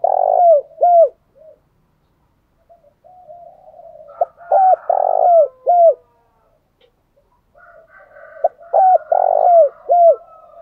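Spotted dove cooing: three phrases of a few short hooked notes, each bending down in pitch at its end, spaced about four seconds apart.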